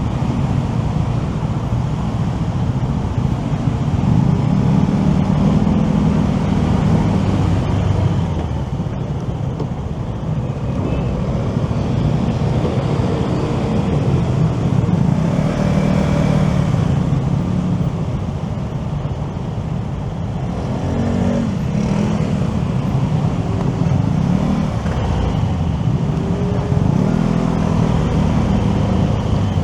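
Motorcycle engine and traffic noise while riding through city streets: a steady rumble whose engine pitch rises and falls a few times as the bike speeds up and slows.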